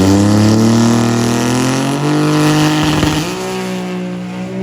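Drag racing car accelerating hard down the strip, its engine note climbing in pitch and breaking at about two seconds and again past three seconds in as it shifts gear. First gear is held long, which the spectator takes for a soft launch with the engine not sounding its best.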